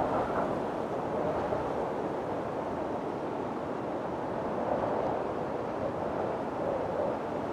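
Windstorm wind blowing, a steady rushing noise in a slightly calmer spell between gusts, swelling a little about five seconds in.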